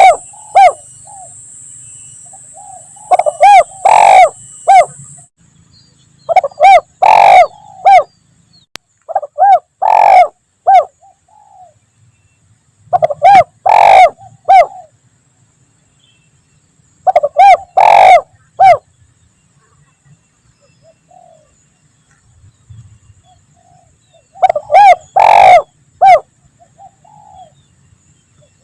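Spotted dove (tekukur) cooing: six phrases of a few coos each, several seconds apart, with a longer pause in the second half.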